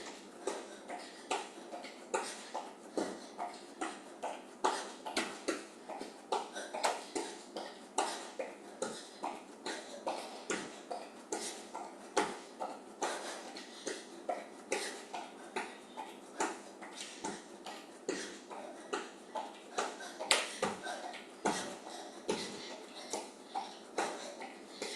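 Feet in running shoes landing on the floor in a steady jumping-jack rhythm, about two landings a second.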